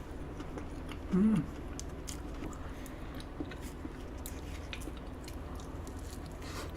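A person chewing a soft chocolate-cream-filled cake close to the microphone: small wet mouth clicks, with a brief hum about a second in.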